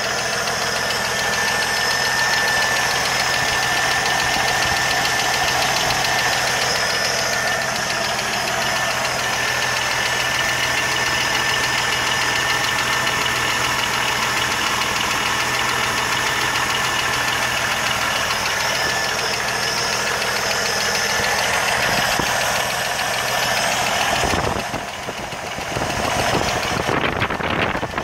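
1980 Jeep CJ7 engine idling with a fast, steady ticking. Near the end the engine cuts off and uneven noise follows.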